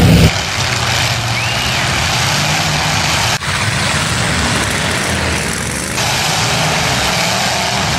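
Engines of several demolition derby cars running and revving at once, a dense, uneven rumble. The sound drops out for an instant about three and a half seconds in.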